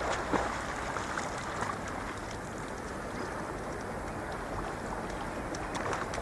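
Lake water lapping: a steady rushing noise with a few short splashes near the start and again near the end.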